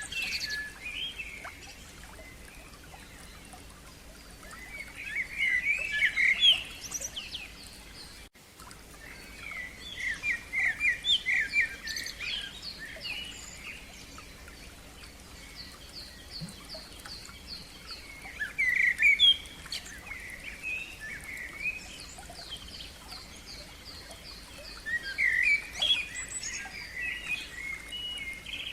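Songbirds singing in separate phrases of quick chirps and trills every few seconds, with a run of fast repeated high notes in the middle, over the steady hiss of a running stream.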